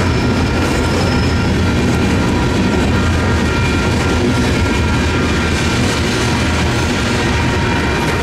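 Freight cars of a manifest train rolling through a grade crossing: a steady, loud rumble of wheels on rail. The crossing's electronic bells are ringing over it the whole time.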